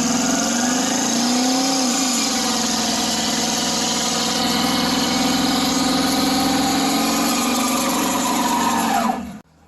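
An engine running loudly and steadily at a fairly high speed. Its pitch dips and comes back up briefly about a second and a half in, and a short rising whine comes just before the sound cuts off abruptly near the end.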